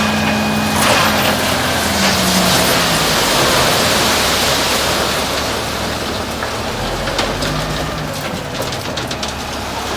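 A dump truck's load sliding out of its tipped bed: a long rushing hiss that swells over the first few seconds and slowly trails off, over a low engine hum that fades out about a second in.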